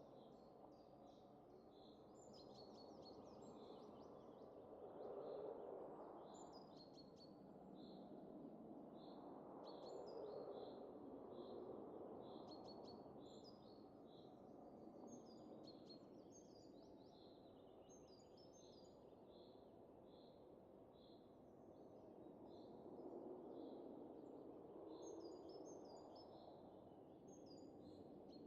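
Faint soft wind rising and falling in slow gusts, with small birds chirping over it in quick repeated calls.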